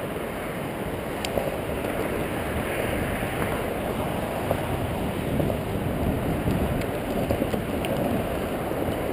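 Skateboard wheels rolling over pavement: a steady, even rumble with a couple of faint clicks.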